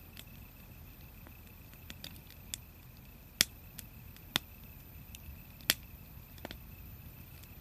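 Wood fire crackling: sharp, irregular pops from the burning wood, the loudest near the middle and again about two-thirds of the way in, over a low steady rumble.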